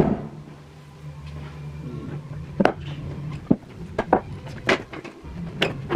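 A handful of sharp knocks and taps, about five spread over the second half, over a low steady hum, typical of wooden workpieces being handled and knocked together in a workshop.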